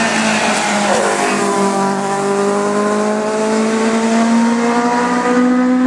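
Competition car engine at high revs under hard acceleration. Its pitch drops about a second in, then climbs steadily as the car pulls through the gear.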